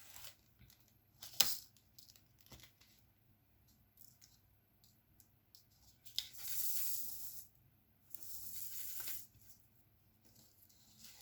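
Diamond-painting work: scattered light clicks and taps of the tools on the canvas and drill tray, with one sharper click early on, then two longer rasping, tearing-like sounds of about a second each in the second half.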